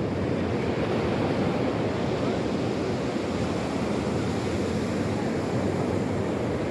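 Sea waves washing steadily on the shore, with wind.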